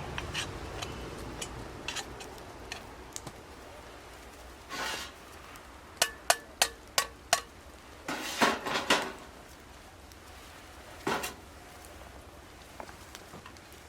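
Metal cookware or utensils clinking: a quick run of five ringing taps about six seconds in, with a few duller knocks and rattles around them.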